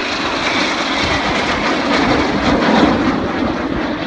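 A formation of four Red Arrows BAE Hawk T1 jets passing low in a flypast. Their Rolls-Royce Adour turbofans make a loud, steady jet roar that swells to a peak about two to three seconds in, then eases.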